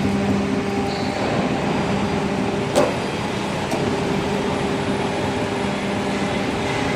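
W24S-140 CNC hydraulic profile bending machine running, its hydraulic power unit giving a steady hum with a low, even tone. A single sharp knock sounds about three seconds in.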